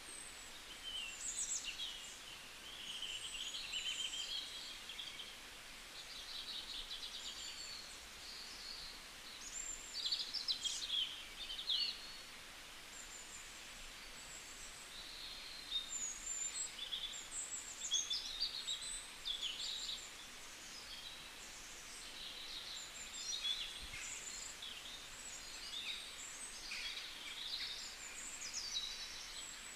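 Songbirds chirping and singing, a steady stream of short high calls and quick trills, over a faint hiss.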